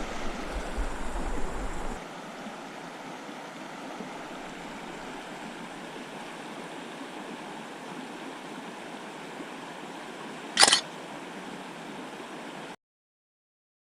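Steady rush of flowing creek water, with one short sharp click about ten seconds in; the sound then cuts out abruptly to dead silence.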